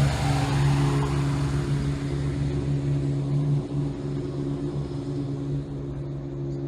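Class 170 Turbostar diesel multiple unit pulling away, its underfloor diesel engines giving a steady low drone that fades as the train moves off.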